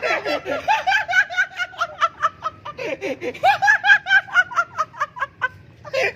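Loud, high-pitched laughter in rapid repeated 'ha' pulses, about five a second, running on without a break for speech.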